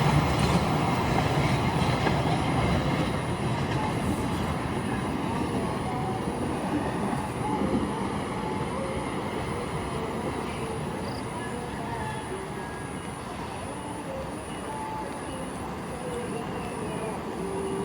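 Train rolling past on the track, a steady rumble of wheels and carriages that slowly fades as it moves away.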